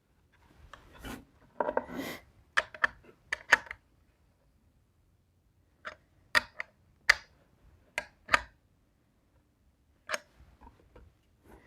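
Scattered clicks, taps and short scrapes of hand tools and parts being handled, in three short clusters with silent gaps between.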